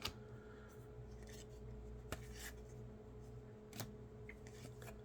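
Faint handling of trading cards: soft slides and a few light clicks as cards are moved and flipped, over a steady low hum.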